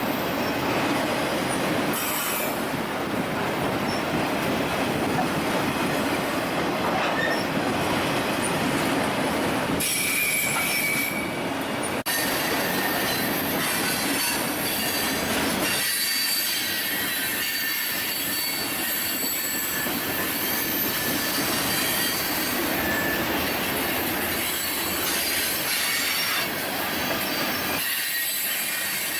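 A Union Pacific train rolling steadily past, its steel wheels squealing against the rails in thin, high, sustained tones over the rumble of the cars.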